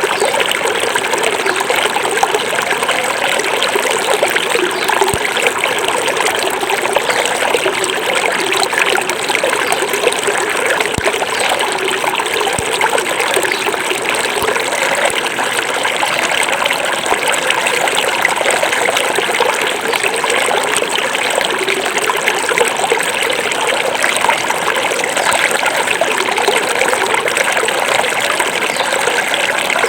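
Small forest river flowing over stones, a steady trickling and babbling of running water.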